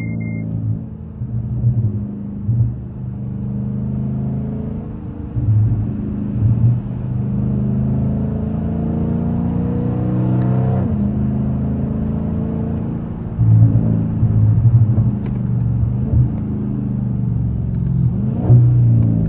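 Dodge Scat Pack's 392 HEMI V8 running while the car is driven, heard from the cabin. Its rumble swells briefly several times under throttle, and the pitch falls once near the middle and rises near the end.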